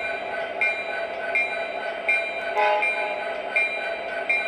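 Model train running on its track: a steady rhythmic clicking that repeats a bit under a second apart, with one short pitched toot a little past halfway.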